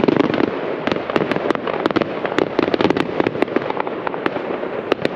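Fireworks going off: a dense, continuous crackle of many sharp bangs and pops, coming several to the second without a pause.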